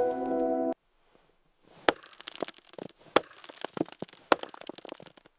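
Background music that cuts off abruptly under a second in, followed after a short silence by a run of irregular sharp cracks and crackles.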